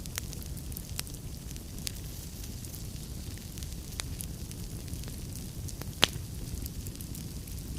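Wood fire crackling steadily over a low rumble of burning, with scattered sharp pops from the logs; the loudest pop comes about six seconds in.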